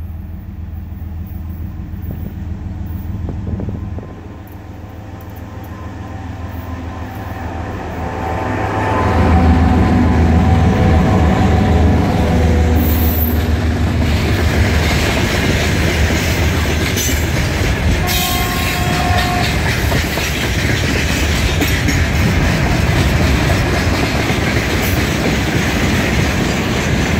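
2TE116UD twin-section diesel locomotive approaching and passing with a freight train. Its diesel engines drone louder until it passes about nine seconds in, and then the wagons clatter steadily over the rail joints, with a brief two-note tone about two thirds of the way through.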